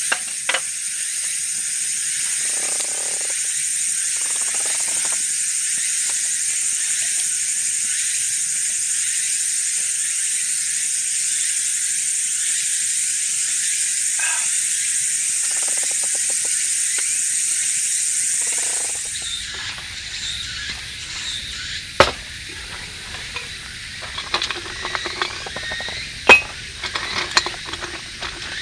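Food sizzling in a pan, a steady hiss that stops about two-thirds of the way through. Then come a few sharp clinks of metal utensils or cookware.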